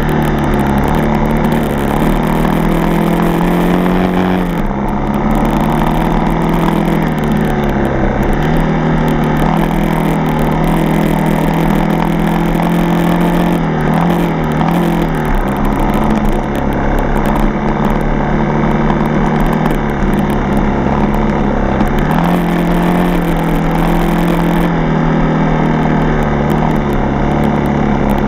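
Yamaha TT-R230 dirt bike's single-cylinder four-stroke engine running under way on a trail ride, loud and continuous, its pitch dipping and climbing back several times as the throttle and gears change.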